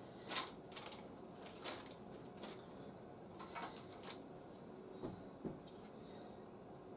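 Scattered light clicks and taps of hard plastic toy parts being handled, about eight sharp ticks spread unevenly over several seconds.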